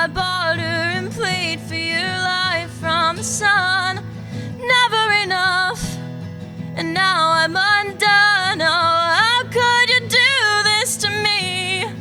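A woman singing a slow song, her voice held and bending in pitch, over acoustic guitar accompaniment.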